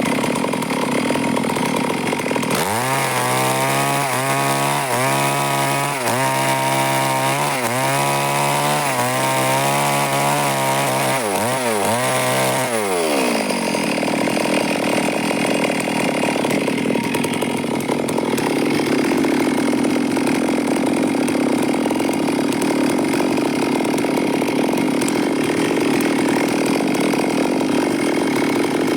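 Stihl chainsaw cutting wood, its engine pitch dipping and recovering about once a second for some ten seconds, then running on as a steadier, noisier sound for the second half.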